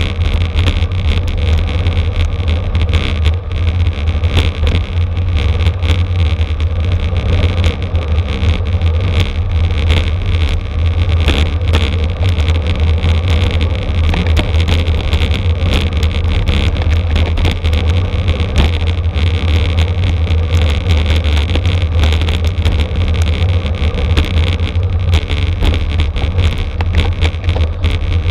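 Steady wind rush and low rumble on the microphone of a camera riding on a racing bicycle at speed, with road and drivetrain noise underneath.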